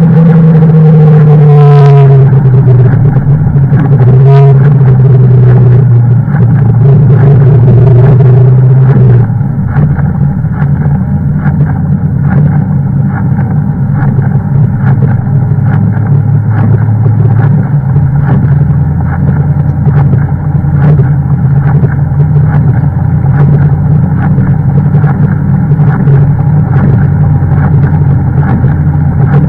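Toyota Celica ST202's 3S-FE 2.0-litre four-cylinder engine heard loud from inside the cabin at speed. Its pitch falls over the first couple of seconds and then holds a steady drone; about nine seconds in it gets quieter and lower, and it drops lower again near eighteen seconds.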